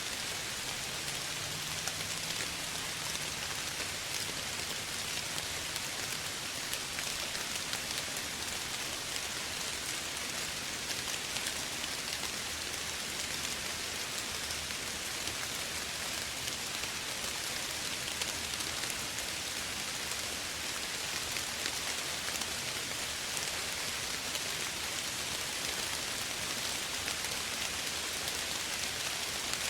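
Steady soft rain falling, an even hiss of many small drops with fine scattered patters.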